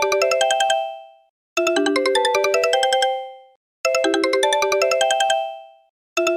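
Mobile phone ringtone: a quick melody of short pitched notes, about a second and a half long, repeating every two seconds or so with brief gaps between repeats.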